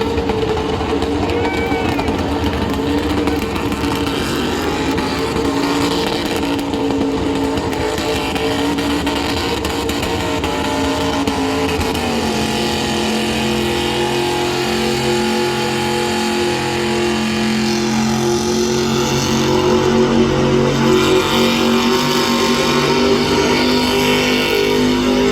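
Car engine running steadily, its pitch stepping down to a lower steady note about twelve seconds in.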